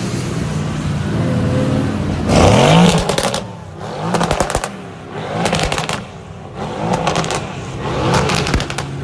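Sports car engine idling, then revved hard about two seconds in, followed by a string of shorter throttle blips with loud exhaust crackling on each one.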